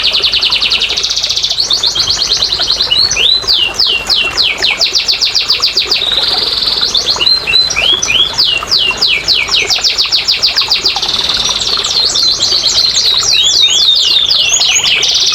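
Domestic canary singing a continuous song: runs of fast repeated rising notes alternating with rapid buzzy rolls, with no pause.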